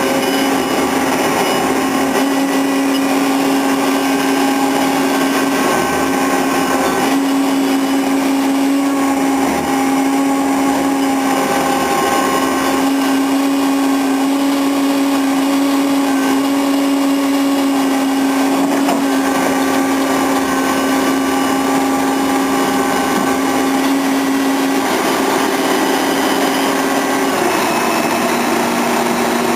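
Pile-driving rig's engine or hydraulic power unit running steadily with a strong droning hum. Its pitch wavers slightly and drops a step lower near the end.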